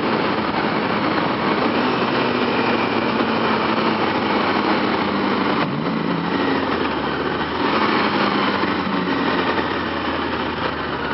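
Motorcycle engine running at low speed, heard through a helmet-mounted camera with a steady rush of wind noise over it. The engine note shifts about halfway through.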